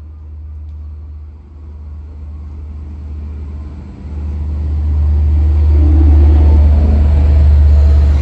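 Long Island Rail Road diesel push-pull train with C3 bilevel coaches arriving, cab car first: a low rumble that gets much louder about four seconds in as the cab car rolls past close by.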